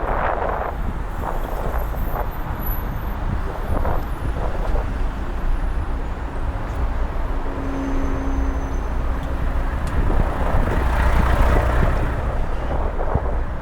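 City street traffic heard from a moving bicycle: a steady low rumble of engines and tyres. A humming tone holds from about five to ten seconds in, and a vehicle passes close, louder, near the end.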